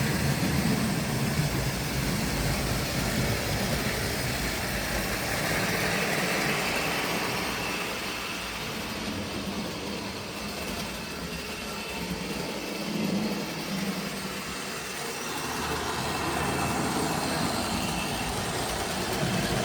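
Tri-ang model train running on the layout: a steady electric-motor hum and wheel rumble on the track, quieter in the middle and louder again towards the end as the train moves around.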